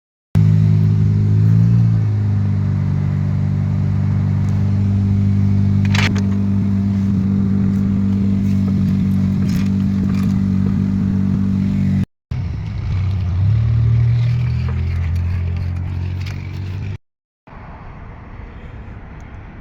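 A car engine running steadily with a couple of brief revs, heard in separate clips with abrupt cuts; the last few seconds are a quieter, noisier stretch.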